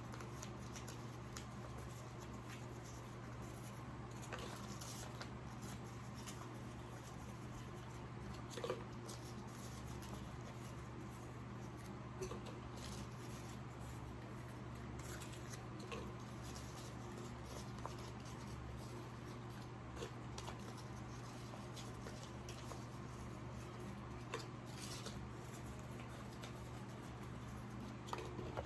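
Steady low hum with faint, scattered light clicks and taps every few seconds.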